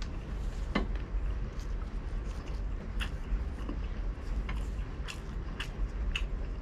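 Close-miked chewing of crispy deep-fried pork belly, with scattered short crunches and mouth clicks, over a steady low hum.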